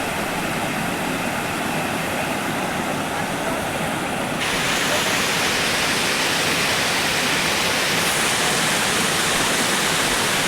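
Waterfall: a steady rush of falling water. About four seconds in it grows louder and brighter.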